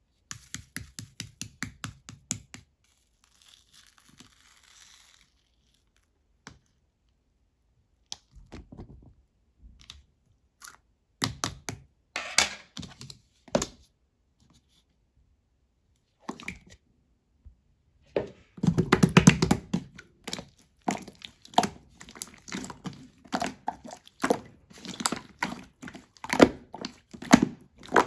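Hand-played slime crackling and popping as it is pressed and stretched: a quick run of clicks at first, scattered pops with quiet gaps in the middle, then a dense stretch of sticky crackles in the last third.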